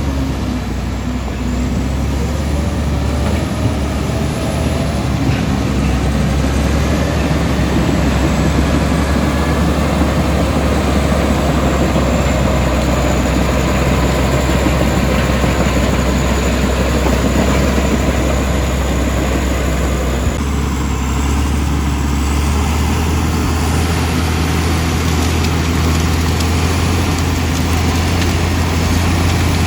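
Komatsu D65E bulldozer's diesel engine running steadily under load, with a dense mechanical rumble. The engine note changes about two-thirds of the way through.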